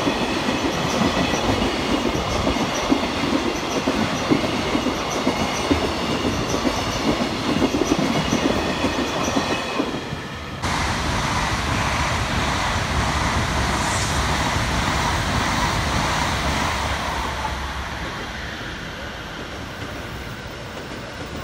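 A freight train of empty container flatcars rolling past with a steady, rhythmic wheel clatter. After a break about ten seconds in, a silver electric passenger train runs past and fades away near the end.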